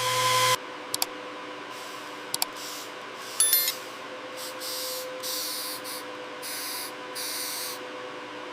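Cleaner being sprayed from a hand spray bottle: a longer hiss at the start, then about five short spritzes in the second half, with a few sharp clicks and a brief squeak between them over a faint steady hum.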